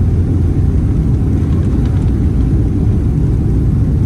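Steady low rumble of cabin noise inside a Boeing 777-300ER airliner, unchanging throughout.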